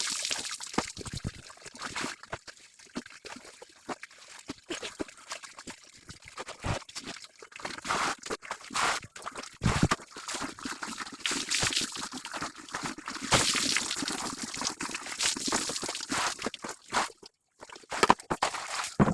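Water splashing, sloshing and trickling in irregular bursts as laundry is washed by hand.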